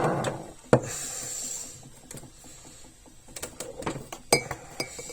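Klarstein Espressionata Gusto espresso machine's steam wand hissing as it froths milk, cutting off just after the start. A sharp click follows a moment later, then scattered small taps and clinks of a jug and cups, two of them ringing briefly.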